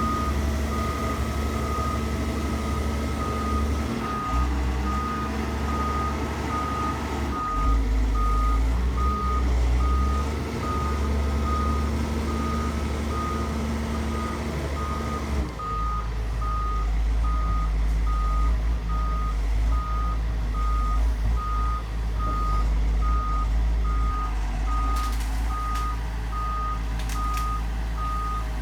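Heavy diesel earthmoving machine's engine running, changing note a couple of times, with a warning alarm beeping at a fast, even rate throughout. A few sharp clicks near the end.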